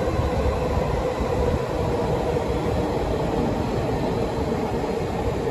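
Train running close by, a steady rumble with a steady hum.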